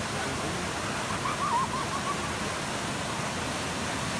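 Waterfall's water rushing steadily. About a second in, a short warbling high call sounds over it for about a second.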